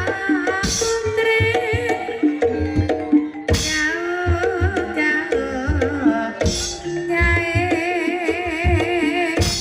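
Ebeg Banyumasan ensemble music: a hand-played kendang drum pattern under sustained gamelan notes and a singer's wavering vocal line, with a bright crash about every three seconds.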